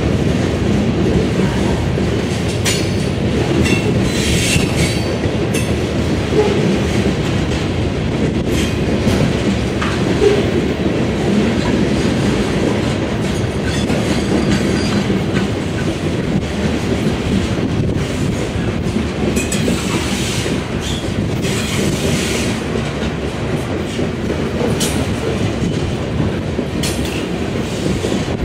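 Freight train of steel covered hopper cars rolling past close by: a steady rumble of wheels on rail, with rhythmic clicking as the wheels cross rail joints and a few faint high wheel squeals.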